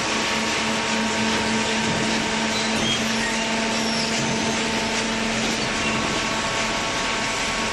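Large waste paper baler running: a steady machine hum with a few constant tones over an even noisy rush, with no change in pace.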